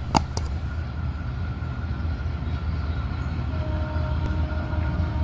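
An approaching Bangladesh Railway train, its diesel locomotive giving a steady low rumble, with faint steady tones above it in the second half. Two sharp clicks sound near the start.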